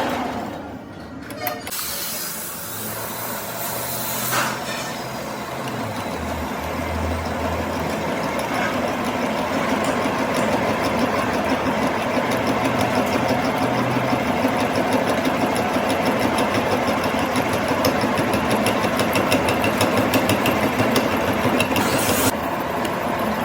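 Steady, loud noise of a workshop power tool working on metal, building up over the first few seconds and cutting off abruptly near the end.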